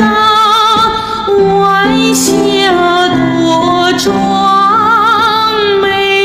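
Woman's soprano voice singing a wordless coloratura passage on a vowel, holding notes with a wide vibrato and moving between pitches, over steady keyboard accompaniment chords.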